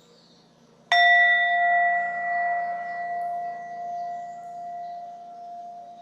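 A meditation bell struck once, about a second in, marking the close of the meditation; it rings on with a clear low tone and a higher one, fading slowly.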